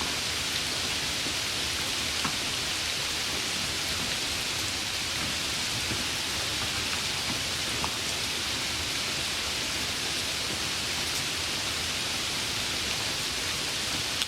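Steady heavy rain falling, with a couple of sharper single drop ticks standing out.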